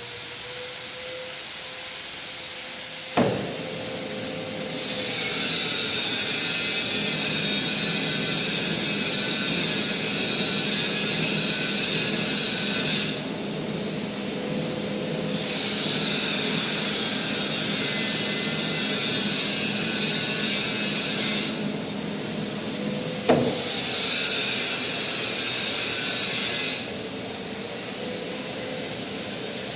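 Manual lathe running while thread is cut on a large bolt: three passes of the tool, each a loud hissing scrape of several seconds, over the machine's steady hum. A sharp clack comes about three seconds in and again just before the last pass.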